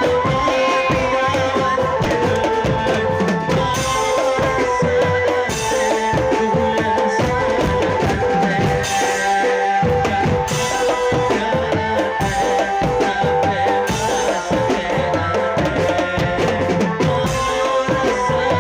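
Drum-band music: bass drum and snare drums beating a dense, lively rhythm under held melody notes.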